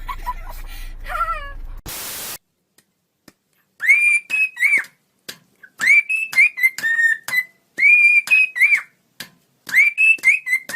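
A string of short whistled notes, each rising to one pitch, holding briefly, then dropping, repeated rapidly over the last seven seconds. Before it come a few short falling calls and a brief burst of hiss.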